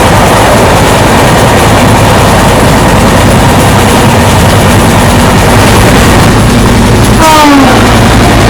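Passenger train running at speed, a loud steady rail rumble and wheel noise; near the end a short horn blast sounds and drops in pitch.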